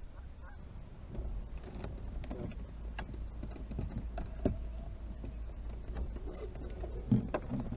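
Boat motor running steadily at trolling speed, with scattered light knocks and a louder thump near the end.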